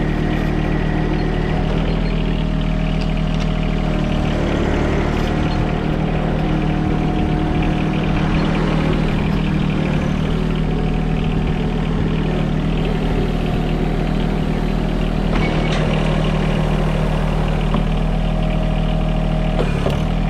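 John Deere 1023E compact tractor's three-cylinder diesel engine running at a steady speed while the tractor drives along.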